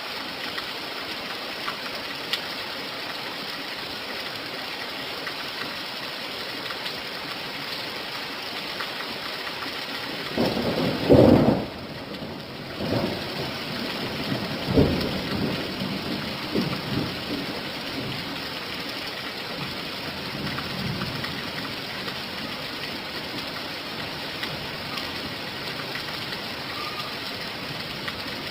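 Steady rain falling, with a clap of thunder about ten seconds in that rumbles on in several rolls for about ten seconds before dying away.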